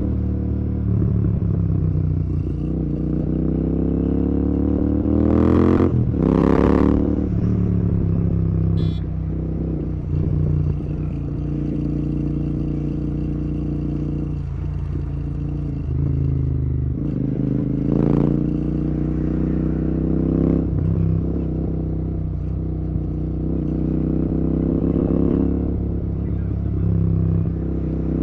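Royal Enfield Continental GT 650's parallel-twin engine running through an aftermarket Red Rooster exhaust while riding, its pitch rising and falling repeatedly as the rider works the throttle and gears. There are sharper, louder bursts about six seconds in and again around eighteen seconds.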